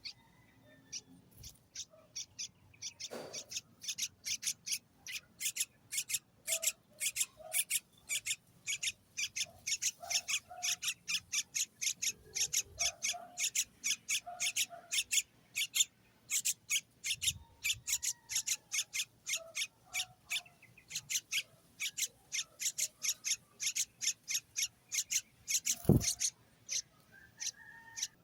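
Baby bird begging: a long run of short, high, raspy chirps, about three a second, as the chick calls to be fed. One loud thump near the end.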